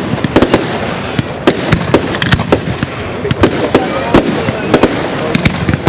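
Fireworks display: aerial shells bursting in an irregular run of sharp bangs, several a second, over a continuous noisy rumble and crackle.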